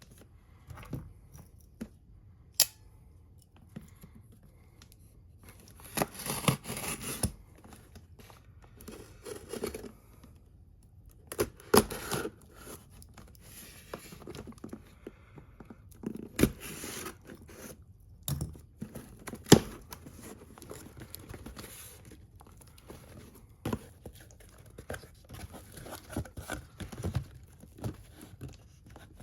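A figure's retail packaging being opened by hand: irregular spells of tearing and crinkling of plastic and cardboard, broken by several sharp clicks and taps.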